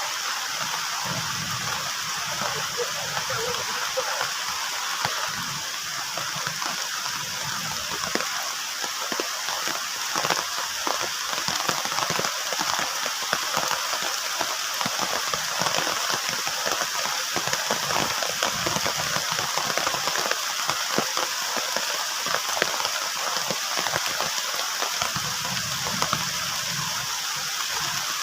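Heavy rain falling on a plastic tarp shelter: a steady dense hiss full of sharp drop hits, growing a little heavier about eight seconds in.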